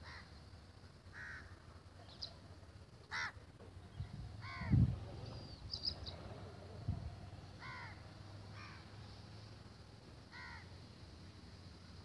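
A bird calling: about seven short, arching calls, one every one to three seconds, with a few thin high chirps in between. A low thump about five seconds in is the loudest sound.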